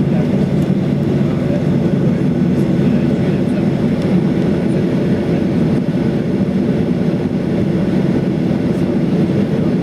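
Steady drone heard inside the cabin of a Boeing 737-800 airliner with its engines running: an even rumble without rises or breaks.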